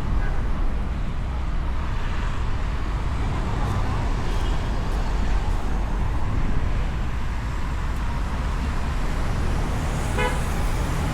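City road traffic passing, a steady low rumble, with a short vehicle-horn honk near the end.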